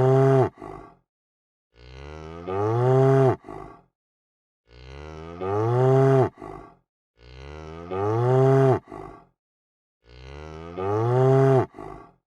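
A cow mooing, the same call repeated about every two and a half to three seconds, with silent gaps between. Each moo swells in loudness, bends up then down in pitch and cuts off suddenly, followed by a brief short second sound.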